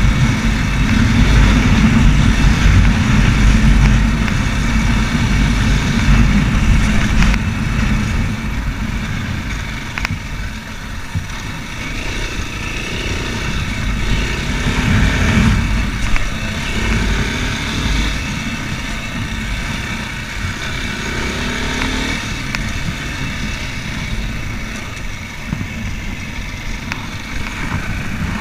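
Racer Panther 300 enduro motorcycle engine running under way, loudest over the first few seconds and easing off a little after about eight seconds.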